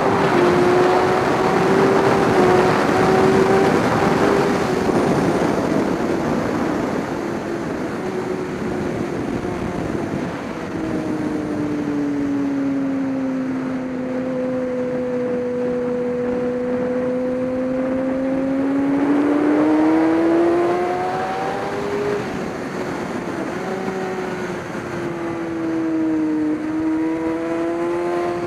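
Amateur GT race car's engine running at speed on track. Its note holds high, drops in pitch about ten seconds in and stays low for several seconds, climbs again, then dips briefly near the end before picking back up.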